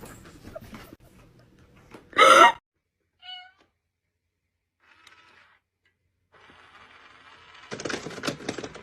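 A domestic cat gives one loud meow about two seconds in, then a short faint meow a second later. Near the end there is a louder stretch of rustling and scuffling noise.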